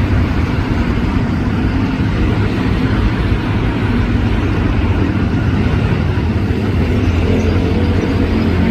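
SRT freight train of empty flatcars running, a steady low diesel-engine drone with continuous rumble and rolling noise.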